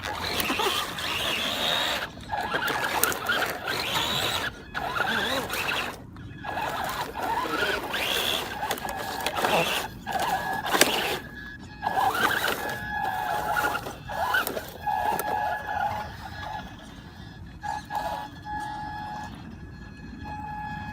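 A FEIYUE FY12 1:12 RC truck's 390 brushed electric motor whining in repeated throttle bursts, with drivetrain and tyre noise. It cuts out briefly several times and runs quieter near the end.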